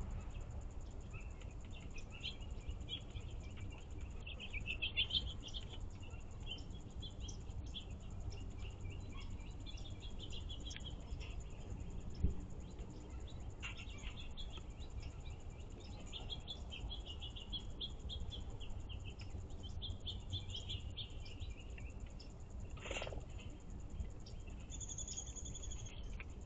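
Wild songbirds chirping and singing in repeated short phrases over a steady low outdoor rumble, with a single knock about twelve seconds in.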